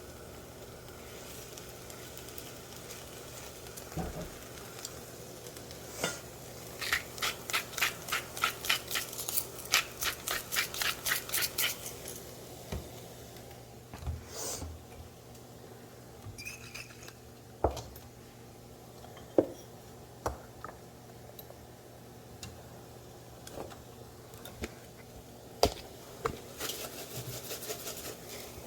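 Utensil stirring and scraping in a skillet, with a run of quick rhythmic strokes lasting about five seconds and scattered clinks and knocks of pans and utensils, over a low steady hum.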